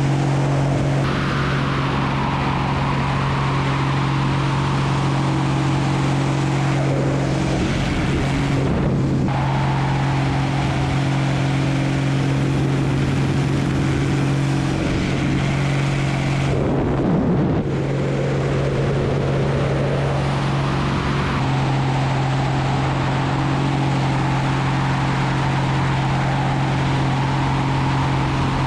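Aerobatic airplane engine and propeller droning steadily with heavy wind rush, heard close up as if from on board the aircraft, the pitch sweeping and the rush dipping briefly a couple of times as it manoeuvres.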